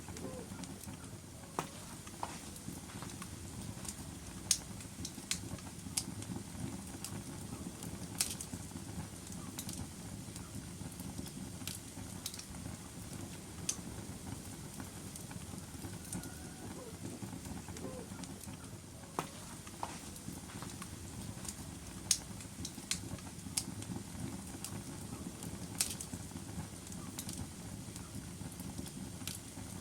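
Wood logs burning in a fireplace: a steady low rumble of flame with irregular sharp crackles and occasional louder pops.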